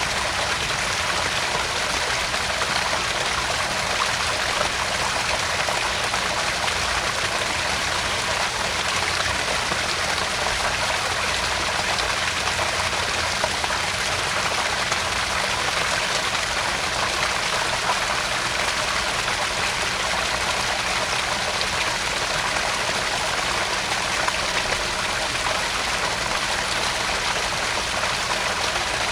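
Small garden-pond waterfall splashing and trickling steadily into the pond, an even, unbroken rush of falling water.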